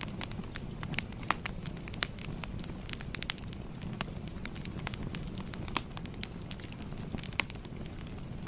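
Wood fire crackling: a steady low rumble of burning with irregular sharp pops and snaps, several louder pops scattered through.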